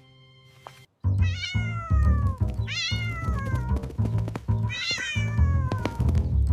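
A kitten meowing three times, each long call sliding down in pitch, over background music with a low, steady beat.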